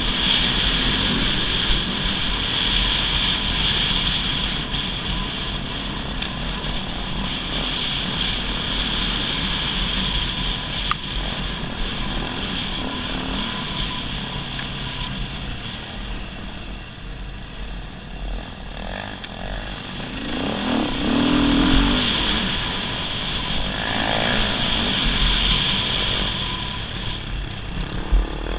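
A dirt bike's engine running as it is ridden along a trail, its loudness swelling and easing with the throttle, with a few sharp knocks.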